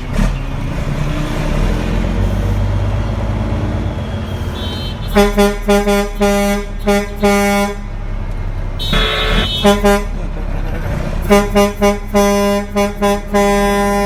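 Dump truck's engine running, then its horn sounded in a run of short rhythmic honks about five seconds in and again from about eleven seconds in. A brief higher-pitched tone comes between the two runs.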